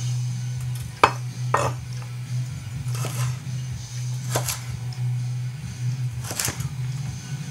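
Ikea Slitbar kitchen knife blade making about five short, sharp clacks, irregularly a second or so apart, over a steady low hum.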